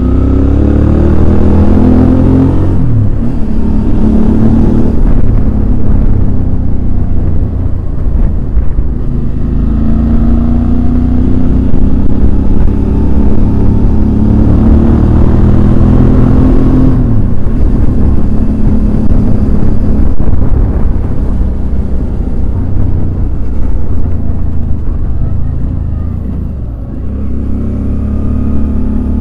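Suzuki DL650 V-Strom's 645 cc V-twin engine heard on the move, pulling hard with its pitch rising in the first few seconds and again through the middle. The pitch drops sharply about two-thirds of the way in, dips again near the end, then climbs once more.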